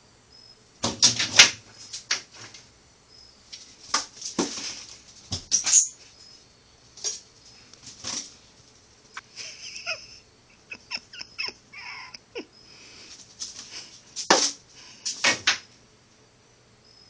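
A cat's paws and claws scrabbling and thumping on the floor in short, irregular bursts with pauses, as it chases a laser dot.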